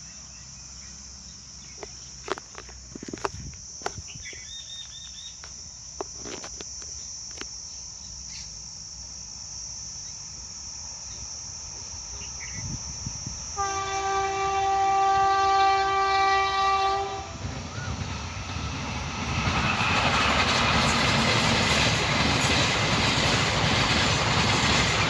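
WAP5 electric locomotive sounding a long horn blast of about three and a half seconds around the middle, as the Jaipur Delhi Express approaches at full speed. From a few seconds later, the train passes close by with a loud, steady rush of wheels and rail clatter.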